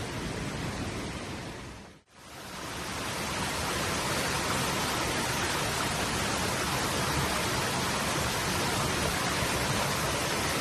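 Steady rushing noise spread evenly from low to high pitch. It fades out to near silence about two seconds in and swells back up over the next two seconds.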